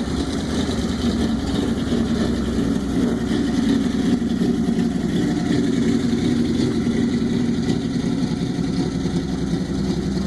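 Fuel-injected 427 cubic-inch Ford small-block V8 of a 1940 Ford truck rat rod, running steadily while the truck is driven, growing a little louder in the middle.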